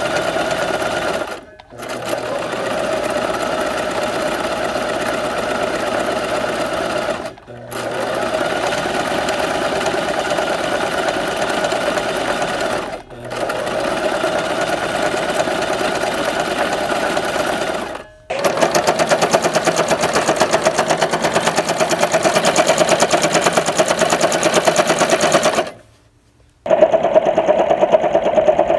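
Sewing machine running in stretches of several seconds, stopping briefly and starting again about five times. The last long run is louder, with a fast, even stitching rhythm.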